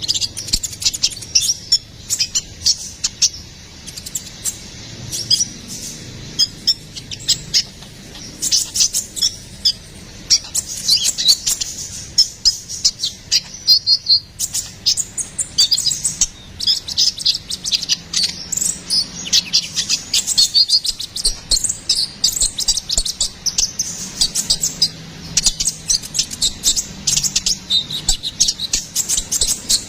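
Kolibri ninja (konin) sunbird singing energetically: rapid strings of high, sharp chirps and trills, nearly unbroken, with a couple of brief thinner spells.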